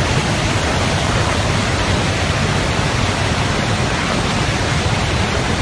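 Steady rush of fast-flowing floodwater, an even, unbroken noise.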